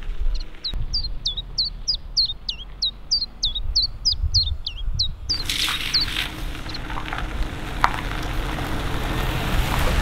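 A bird calls in a rapid series of short whistles that fall in pitch, about four a second, over a low rumble. About five seconds in, the hiss and crunch of a car's tyres rolling on a gravel road sets in and takes over.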